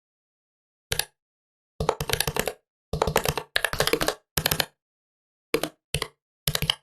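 Typing on a Huawei Matebook 13 laptop keyboard: a single keystroke, then several quick bursts of rapid key clicks with short pauses between.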